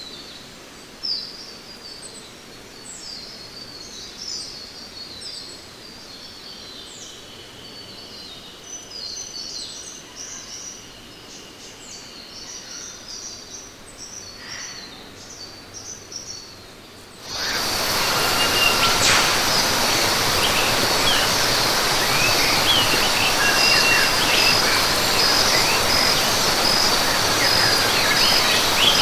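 Birds chirping and calling in quick, scattered bursts over a quiet background. About seventeen seconds in, the sound switches abruptly to a much louder, steady rushing noise, with insects buzzing and birds calling over it.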